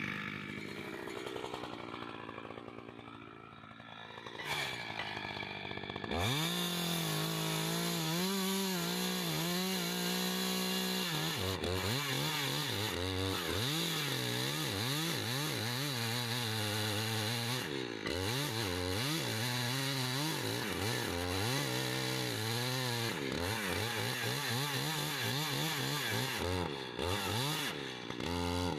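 Chainsaw engine idling at low speed. About six seconds in it is throttled up and runs hard, its pitch dipping and rising again and again as it cuts into an oak tree.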